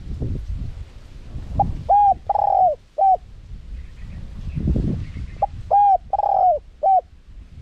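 Spotted dove cooing: two phrases a few seconds apart, each of four arched coos, with the third coo long and wavering. A low rumbling background noise runs underneath.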